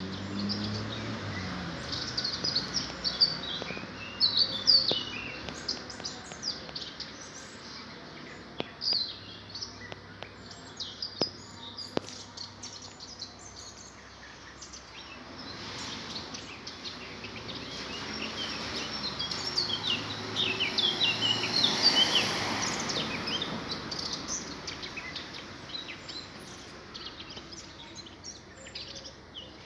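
Many small birds chirping and twittering in quick, high notes. A broad rushing noise swells up through the middle and fades again.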